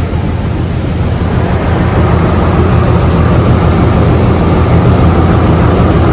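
Jeep Liberty V6 engine idling steadily, with a misfire on cylinder 2 that is put down to a failed ignition coil.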